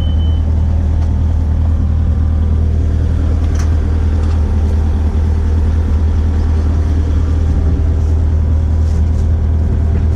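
Kubota KX057-5 mini excavator's diesel engine running steadily, heard from inside the cab while the machine travels. A short high beep sounds right at the start.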